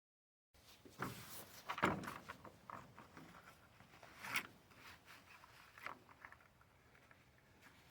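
Scattered clicks, knocks and rubbing as hands scrape and wipe bubbled paint stripper off a metal pedal handle with hand tools and paper towels. The loudest knocks come about one and two seconds in and again past four seconds.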